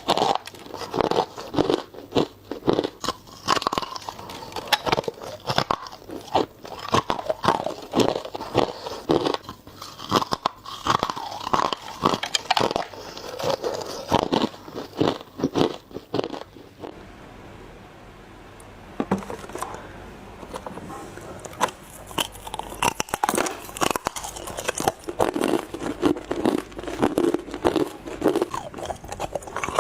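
Ice being bitten and chewed close to the microphone: dense, crisp crunching. It pauses for a few seconds just past the middle, then starts again.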